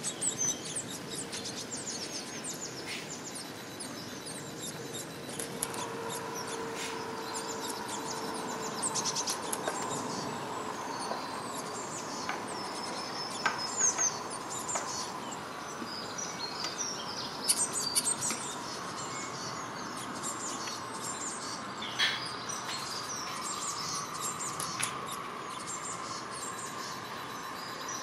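Small birds chirping in quick, repeated calls in the background. A few sharp knocks come from vegetables being added to a frying pan, one about halfway through.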